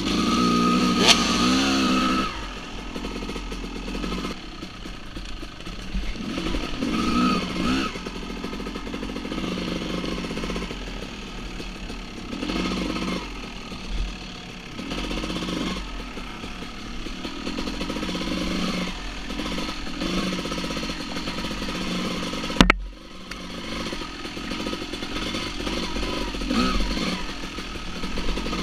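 Dirt bike engines revving up and dropping back again and again, in short bursts of throttle. A single sharp crack cuts in about three quarters of the way through.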